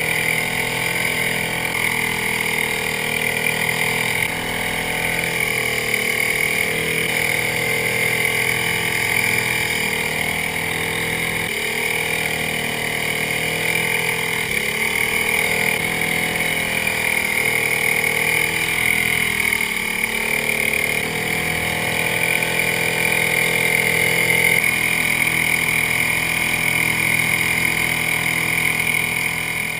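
Small bumper-boat motor running steadily, its pitch dipping and rising again several times as the throttle changes.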